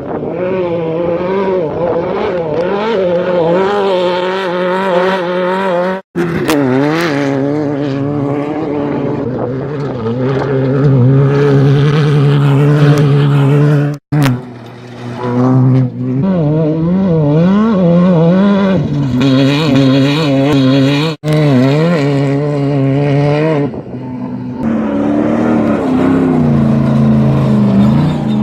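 Off-road race vehicles' engines running hard at full speed as they pass, the pitch wavering up and down with the throttle. The sound breaks off abruptly three times as one pass cuts to the next.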